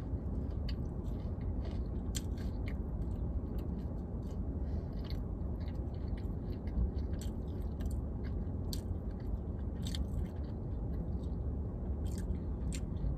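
Close chewing of a mouthful of fried chicken sandwich: many irregular small wet, crunchy clicks, over a steady low hum.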